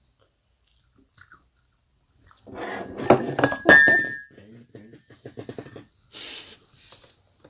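Close-miked eating sounds of Korean fish cake: wet chewing and smacking, with chopsticks or skewers clinking against a glass bowl, one clink ringing briefly. They start after a couple of seconds of quiet and are loudest around three to four seconds in, then go on as a quicker run of small chewing smacks.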